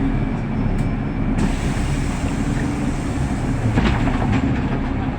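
City bus heard from inside the passenger cabin, its engine running with a steady low rumble. A few short rattles come about four seconds in.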